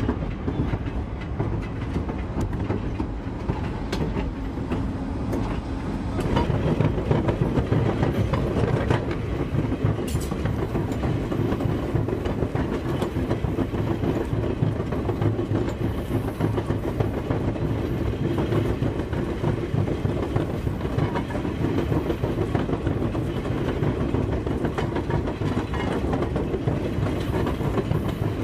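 Railroad car rolling on track, a steady rumble of wheels on rail that grows louder about six seconds in.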